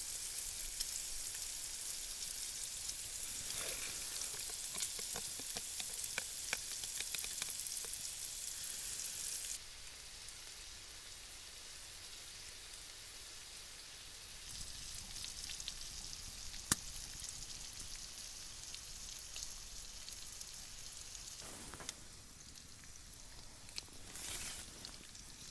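Stir-fry sizzling in a hot pan, with scattered clicks of a utensil stirring a few seconds in. The sizzle suddenly becomes quieter about ten seconds in and carries on more softly, with one sharp click later.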